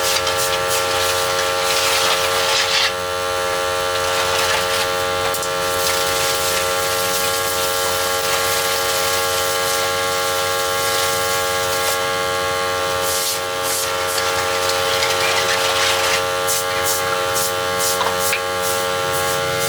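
A small motor running steadily at one constant pitch, with a hiss over it and short ticks here and there.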